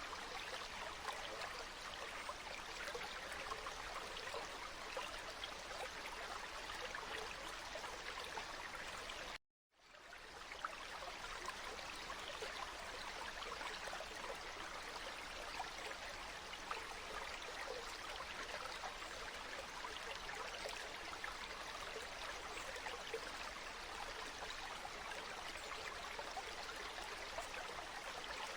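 Flowing water running steadily, a fine, splashing rush. About a third of the way in it cuts out to silence for about half a second, then fades back in.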